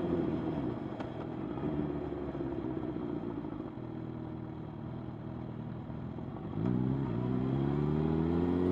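Motorcycle engine during a ride. Its revs ease off and fall slowly for about six seconds, then it picks up louder, rising steadily in pitch as the bike accelerates.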